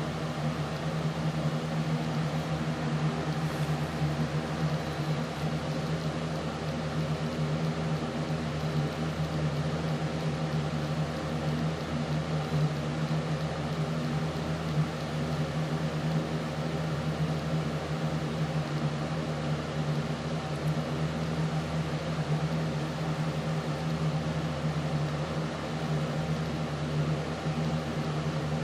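Steady machine hum with a strong low tone and several fainter steady tones above it over a faint hiss, unchanging throughout.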